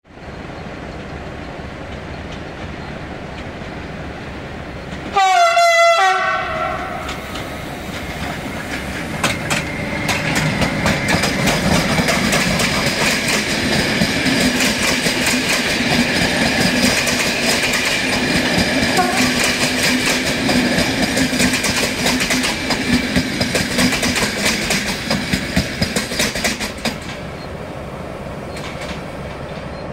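An electric locomotive sounds one short horn blast about five seconds in. Then a long passenger train passes close by for about twenty seconds, its wheels clicking over the rail joints steadily, with a steady high ringing from the wheels and rails, until it fades near the end.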